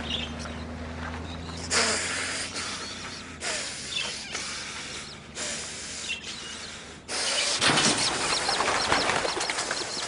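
Small birds chirping over a run of rushing noise that comes in several surges, each lasting a second or two, with the loudest surge in the last few seconds.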